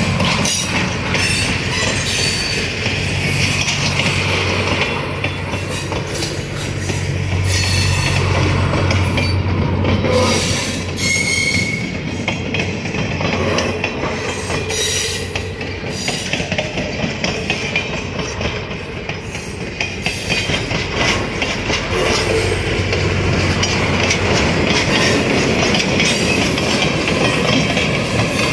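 Train cars rolling slowly past, steel wheels clicking over rail joints, with a short high wheel squeal partway through. A low steady hum runs underneath.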